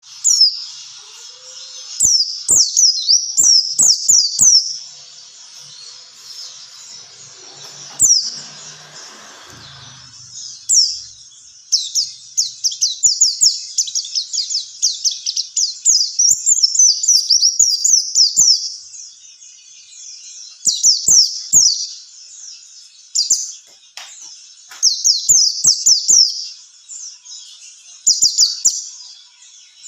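White-eye (pleci) song: quick bursts of rapid, high, downward-slurred chirps in phrases a few seconds long, with short pauses between. It is a trigger song meant to set other pleci singing.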